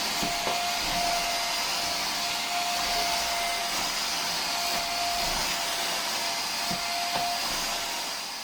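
Techwood bagless vacuum cleaner running: a steady whir with a thin whine through it, fading away near the end.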